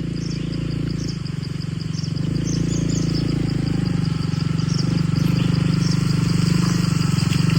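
Motorcycle engine running under load at a steady pitch, slowly getting louder, as a bike works its way up a slippery muddy trail. Insects chirp faintly and steadily in the background.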